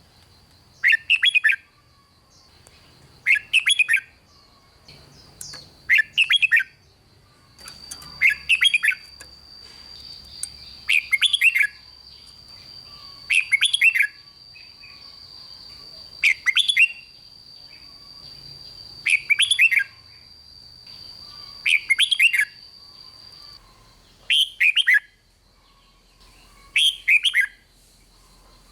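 Red-whiskered bulbul singing: short, bright warbled phrases of half a second or so, repeated about every two and a half seconds.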